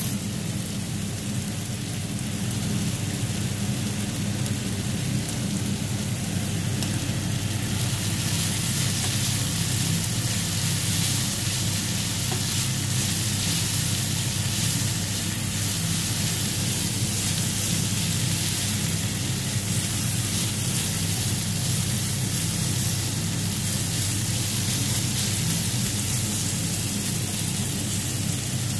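Chicken tocino sizzling as it fries in its sweet marinade in a non-stick pan, with a spatula turning the pieces. The sizzle is steady and grows louder about eight seconds in.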